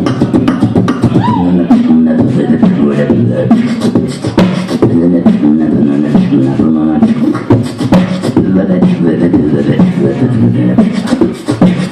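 Beatboxing: a steady beat of sharp mouth-percussion clicks under short held vocal notes that change pitch every half second or so.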